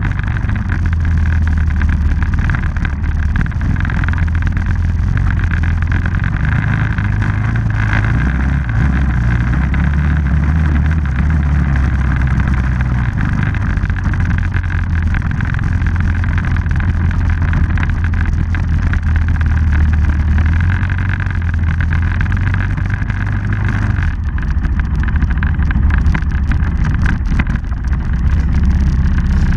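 Engine of a dirt bike or ATV running continuously under way, its pitch rising and falling a little as the throttle changes.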